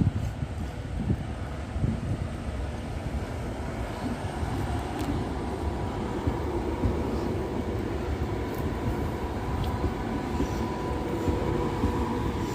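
Train at a station platform: a steady low rumble, joined about four seconds in by a faint steady whine.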